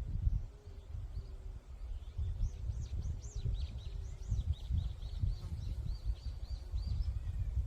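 Wind rumbling in gusts on the microphone in a forest while a small songbird sings. The bird gives a few high arching notes, then a quick even run of about a dozen repeated notes, roughly five a second.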